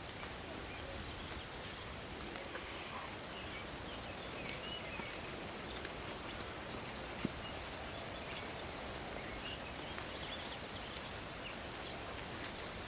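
Night forest ambience: a steady hiss of rain and wind in the trees under a constant high cricket trill, with scattered short chirps. One sharp click about seven seconds in.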